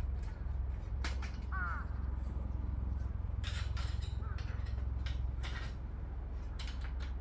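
Clinks and taps of thin metal heat-shield plates being fitted together over a steady low rumble, while a bird gives short arching calls twice.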